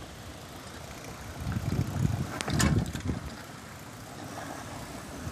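Bicycle riding noise: wind rumbling on the microphone and the bike rattling. It grows louder between about one and a half and three seconds in, with a few sharp clicks in the middle.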